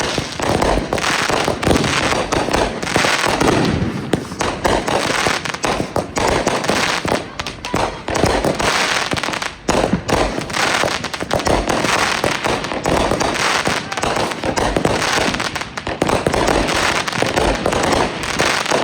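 Fireworks going off in a dense, continuous barrage of rapid pops and crackles, with a brief lull about halfway through.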